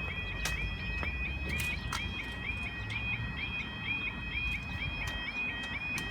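Level crossing audible warning alarm sounding: an electronic yelping tone repeated about three times a second, with a steadier higher tone behind it. Wind rumbles on the microphone, with a few sharp clicks.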